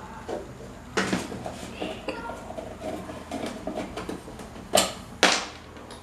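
Metal parts of an old electric fan clinking and knocking as they are handled. There is a sharp knock about a second in, a short ringing ping about two seconds in, and two more sharp knocks close together near the end.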